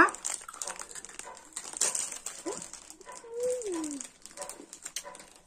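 Chewing of a crisp rice cracker and rustling of its snack packet, made up of scattered small clicks. About three seconds in there is one short, falling, whine-like vocal sound.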